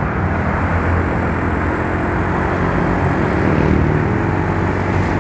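Yamaha Mio Soul scooter's single-cylinder engine running steadily while riding, under a continuous rush of wind and road noise.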